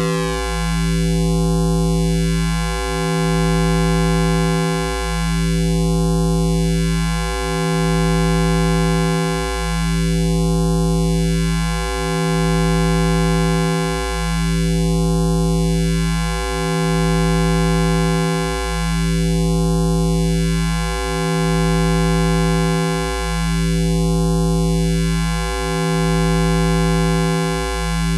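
High-voltage electrical hum sound effect: a steady low buzz rich in overtones, with a slow sweeping swirl that comes round about every four and a half seconds.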